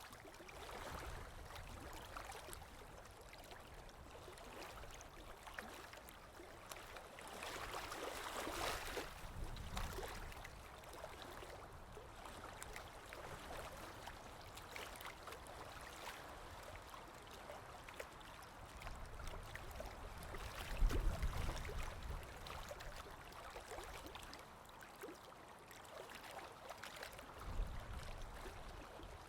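A stream of running water flowing and trickling, with a swell about a third of the way in. Short low rumbles come through twice, in the second half.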